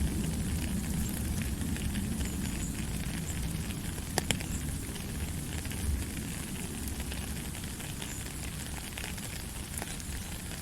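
Steady light rain, with the crackle of many small drops pattering, and one sharper drop tap about four seconds in.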